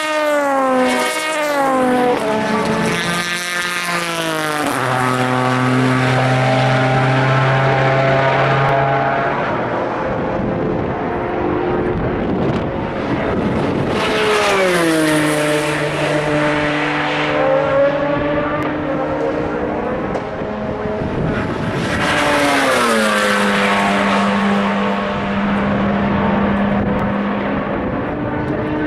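Endurance racing cars passing at speed one after another, about four passes. Each engine note drops sharply in pitch as the car goes by, then holds a steady lower tone as it pulls away down the track.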